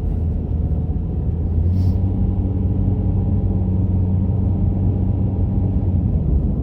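A car driving along a road, heard from inside the cabin: a steady low rumble of engine and tyres, with an engine hum that grows stronger about two seconds in.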